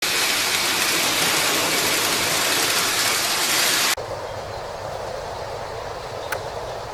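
Lionel toy electric trains running on track: a loud, steady rushing noise that stops abruptly about four seconds in, followed by a quieter rumble with a single click near the end.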